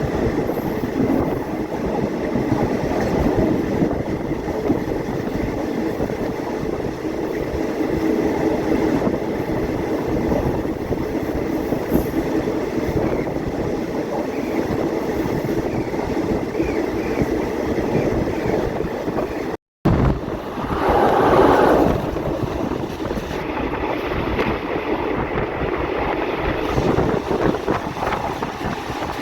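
Passenger train running at speed, heard from aboard: a steady rumble of wheels on rail and carriage noise. About two-thirds through, the sound drops out for a split second, then swells louder for a couple of seconds.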